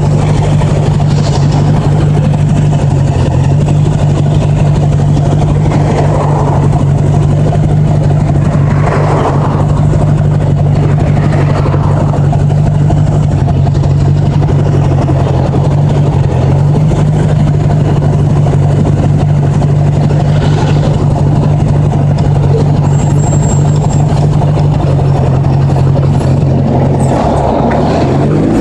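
1980s Honda Gold Wing's flat-four engine running at a steady cruising speed under heavy wind and road noise. Near the end the engine note drops and then climbs again, as with a gear change.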